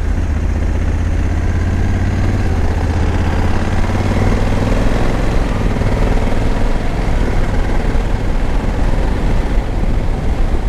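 Honda Africa Twin's 1084 cc parallel-twin engine running on the move, under rumbling wind and road noise; the engine note shifts in pitch about halfway through.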